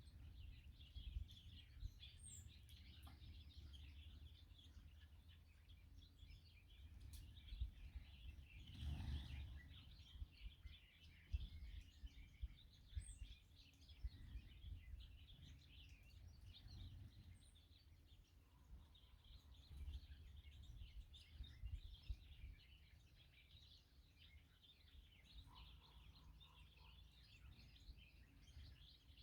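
Faint, dense chorus of small birds chirping and twittering continuously, over a low steady rumble, with a brief rush of noise about nine seconds in.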